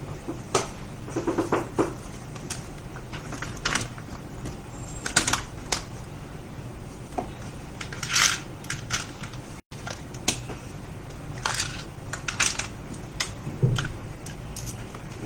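Irregular sharp clicks and taps, with a few light scrapes, of small hard parts and hand tools being handled during laptop repair work, over a steady low hum.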